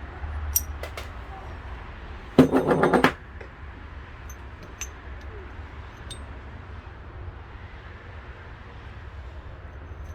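Metal parts clicking and clinking now and then during work on a lawn tractor transmission, with one loud, buzzy rattle lasting under a second about two and a half seconds in, over a steady low hum.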